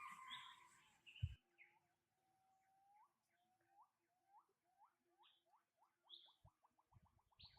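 Faint bird song: a series of short rising notes, slow at first and speeding up into a fast trill, with other birds chirping higher. A couple of low thumps come in the first second or so.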